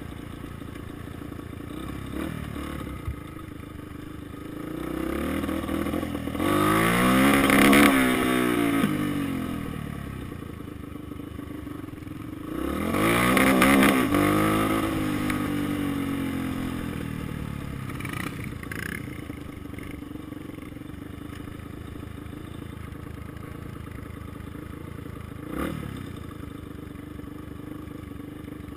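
Dirt bike engine heard from the rider's helmet, running low most of the time and revving up hard twice, about seven and thirteen seconds in, its pitch climbing and then falling away each time. A couple of short knocks come later.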